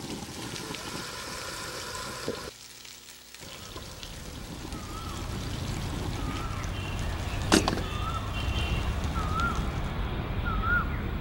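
Chicken stock being poured into a pan of gravy base for the first couple of seconds. After a cut, a bird repeats a short warbling call about once every second over a low rumble, with one sharp click partway through.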